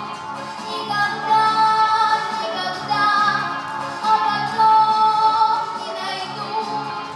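A song with a female voice singing long, held notes over a pop backing track.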